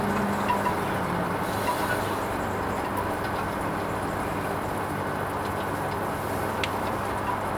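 Hoover Vision HVP16 washing machine running a Silks 30 wash: a steady running noise with a low hum and a few faint clicks.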